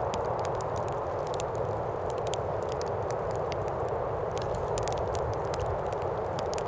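Steady wind noise with the irregular crackles and pops of a burning wood fire scattered through it.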